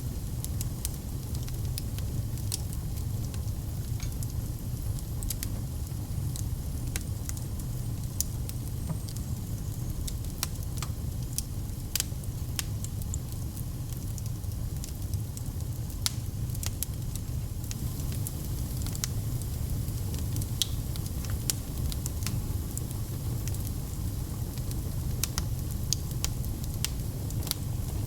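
Fireplace wood fire crackling, with frequent sharp pops and snaps over a steady low rumble of flames.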